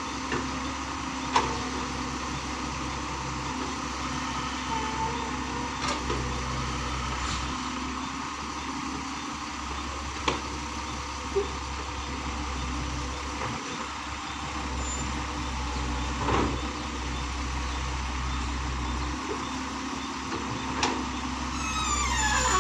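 Heavy diesel machinery at an excavator loading a tipper truck, running steadily, with a few sharp knocks scattered through and a falling squeal near the end.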